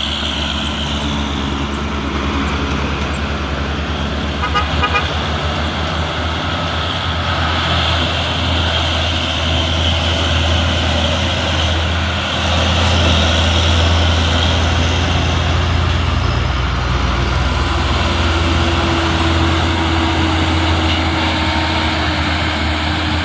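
Diesel truck engines running as trucks climb the hill road, a steady low engine drone with traffic noise. It grows somewhat louder about halfway through.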